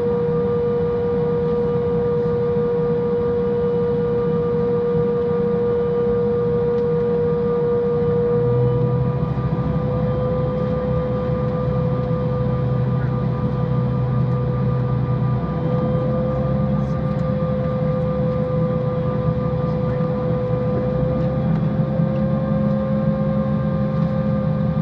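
Airliner jet engines heard inside the cabin before takeoff: a steady whine that creeps slightly upward in pitch over a low drone.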